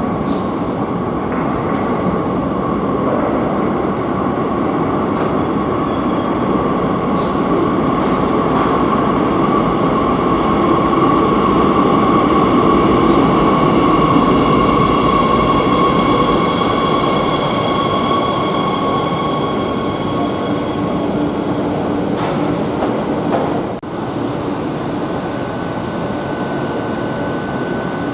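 Madrid Metro series 8000 train running on the rails, a steady rumble with a high whine and wheel noise. It swells gradually to about halfway through, eases off, and has a brief dip near the end.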